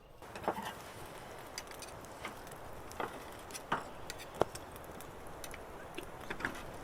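Campfire cooking: a steady hiss with irregular sharp crackles and pops, the loudest about three and four seconds in.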